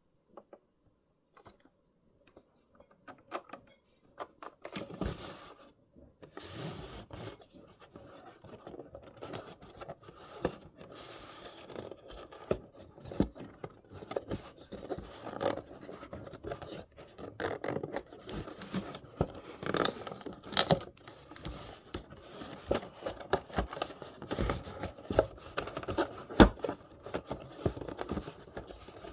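Hands opening a perfume's packaging: irregular scraping and rubbing with many sharp clicks, starting about three seconds in.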